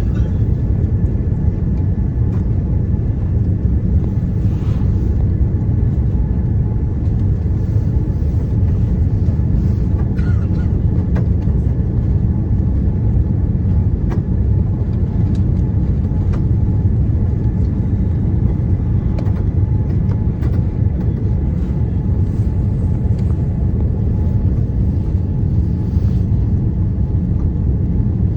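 Steady low rumble of a Boeing 787-9 airliner heard from inside the cabin, with a faint steady high tone and a few light clicks.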